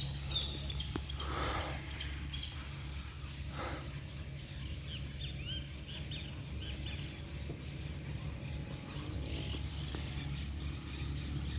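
Small birds chirping, many short calls throughout, over a steady low rumble of outdoor background noise.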